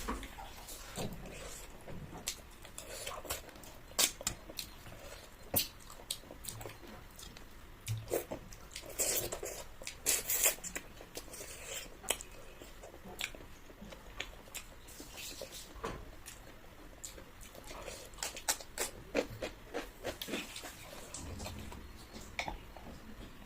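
A person eating a meal up close: chewing and mouth sounds with many small sharp clicks and ticks scattered irregularly throughout.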